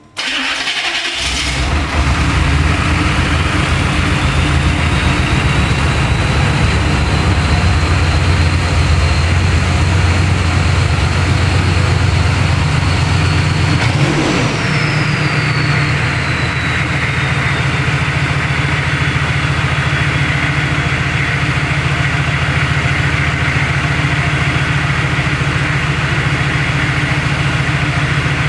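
Chevrolet Suburban's 6.5-litre turbo-diesel V8 starting and running with no muffler, its open-filtered turbocharger whistling. The whistle climbs over the first few seconds and holds. About halfway through, a brief blip of the throttle sends the whistle up, and it slowly winds back down.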